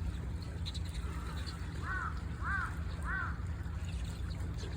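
A bird gives three short, arched calls about half a second apart, over a steady low hum.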